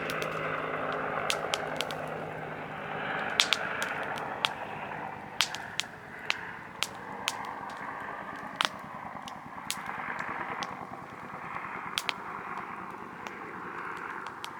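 Softwood campfire crackling, with sharp pops about once a second at irregular intervals over a steady rush of flame and wind. A distant helicopter's low drone fades out in the first couple of seconds.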